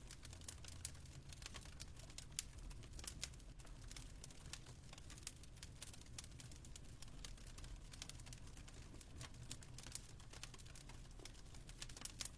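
Fireplace crackling: faint, irregular pops and snaps over a low steady rumble.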